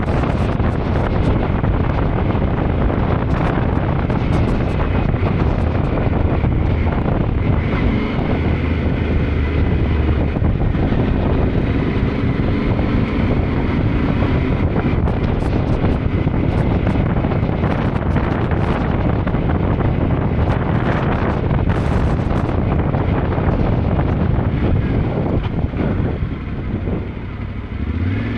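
Wind buffeting the microphone while a Yamaha Ténéré 700's parallel-twin engine runs underneath at riding speed. Near the end the wind eases and the engine note comes through more clearly.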